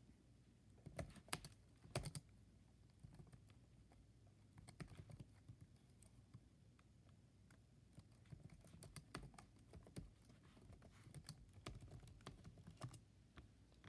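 Faint typing and clicking on a computer keyboard: irregular keystrokes throughout, with a few louder clicks about one and two seconds in.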